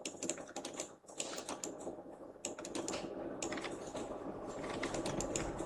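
Computer keyboard being typed on, a run of irregular key clicks as hotkeys are pressed while posing a character in Maya.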